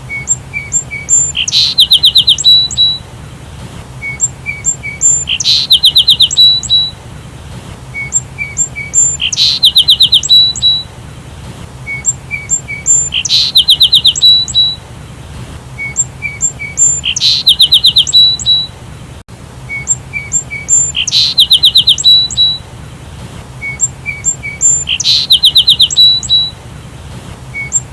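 Sparrow chirping: a burst of rapid, loud chirps followed by a few short higher notes, the same pattern repeating about every four seconds, over a faint steady low hum.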